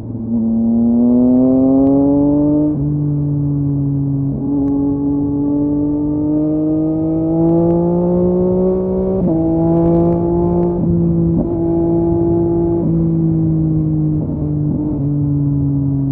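2023 Yamaha MT-09's three-cylinder engine running through a LeoVince LV Race exhaust while riding. The engine pitch climbs and falls with the throttle and steps suddenly several times at gear changes.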